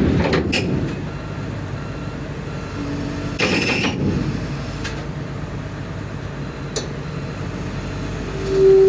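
Heavy diesel machinery running steadily, with loud metallic clanks at the start and about three and a half seconds in. A short steady hooting tone, the loudest sound here, comes near the end.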